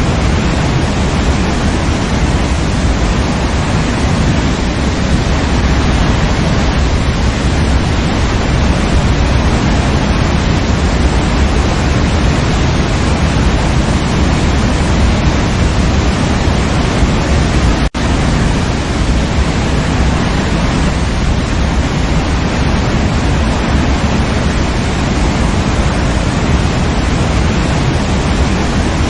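Waterfall, a loud, steady rush of falling water that cuts out for an instant about two-thirds of the way through.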